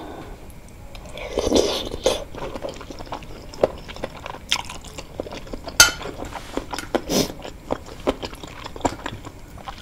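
Close-miked chewing and biting of cartilage-filled wontons in soup: wet mouth sounds and small crunches, with a louder bite about one and a half seconds in and a single sharp click near the middle.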